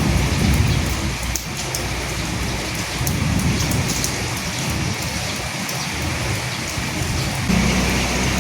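Steady rain falling on a surface, a continuous hiss with many separate drops ticking through it. A low rumble sits under the rain at the start, fades, and a steadier low rumble comes in suddenly near the end.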